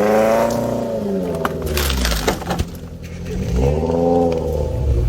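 4x4's engine revving up and dropping back in two surges, one at the start and another about three and a half seconds in, over a low rumble. Sharp knocks and cracks come in between, about one and a half to two and a half seconds in.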